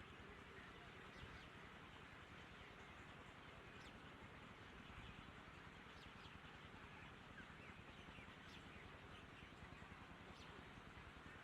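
Faint outdoor ambience: a steady hiss with a few faint, short bird chirps every second or two.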